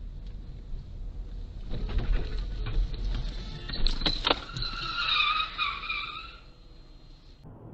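Car road noise, then two sharp knocks about four seconds in, followed by tyres squealing in a wavering skid for about two seconds.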